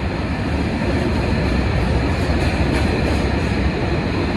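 Heavy freight train passing close by, its wheels and wagons making a steady, loud, very heavy low rumble on the rails.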